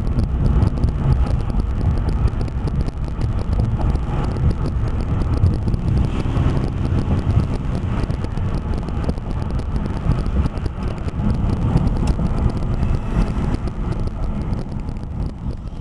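Steady in-cabin driving noise from a car with a 2.7-litre six-cylinder engine: a low engine and road rumble with some wind on the microphone.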